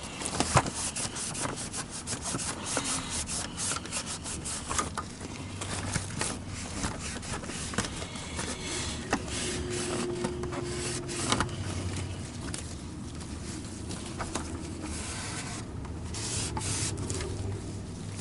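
Hands working on a vacuum power head's parts: irregular rubbing and scraping with many scattered clicks and knocks.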